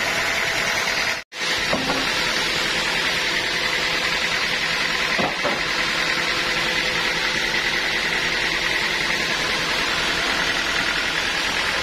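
Sawmill machinery running with a steady, loud mechanical noise and hiss. The sound drops out for an instant about a second in.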